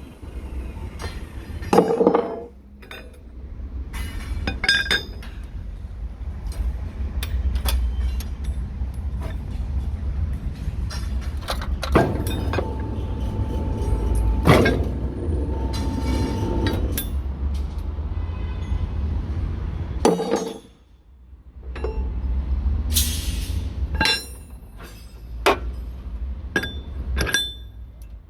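RMZ GW40A rebar bending machine running: its electric motor and gearbox hum steadily while steel rebar clinks and clanks against the bending pins and table. There is a whining tone for several seconds in the middle, and the drive stops briefly about two-thirds through before starting again.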